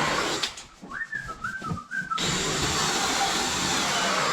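A few short whistled notes that step up and down in pitch, followed about two seconds in by a loud, steady hiss that runs to the end.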